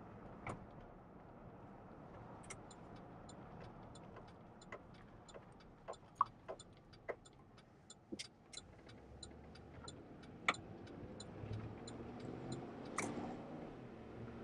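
Inside a car, a turn-signal indicator ticks at an even pace for about ten seconds, with a few scattered knocks. Near the end the engine grows louder as the car moves off.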